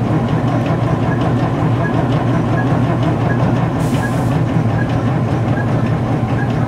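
Starter cranking the cold diesel engine of a 1968 Buffalo bus: a steady drone with a faint tick about every three-quarters of a second. The engine does not catch; it is too cold to fire.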